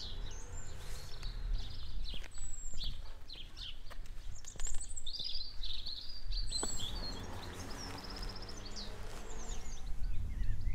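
Songbirds chirping and singing, several calls overlapping in quick, high trills, over a steady low rumble.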